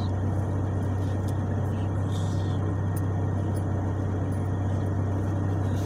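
A car's engine idling, heard from inside the cabin: a steady, unchanging low hum.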